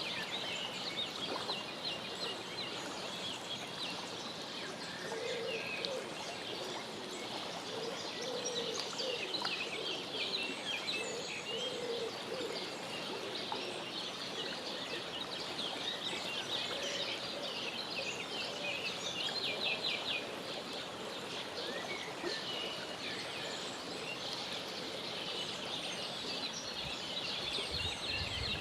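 Birds chirping: a steady, dense chatter of short high chirps and peeps, with a few lower calls mixed in.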